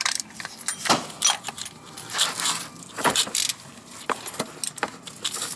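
Irregular metallic clicks and clinks of an oil filter cup wrench being fitted to and worked on the oil filter housing.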